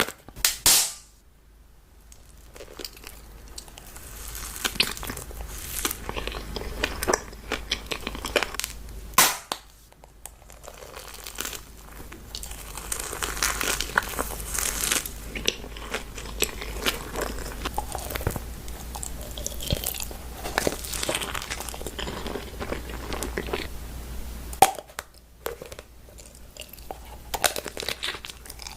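Close-miked eating: crunchy bites and chewing, an irregular run of sharp crackly crunches with a few short pauses.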